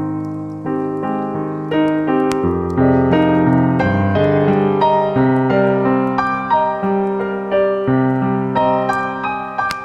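Background piano music: a calm piece of struck chords and a slow melody at an even pace.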